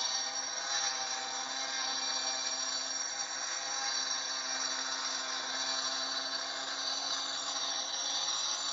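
Hitachi 4.5-inch angle grinder with a diamond cutoff wheel running steadily under load, cutting a score line into a firebrick, with a steady high whine over the grinding noise.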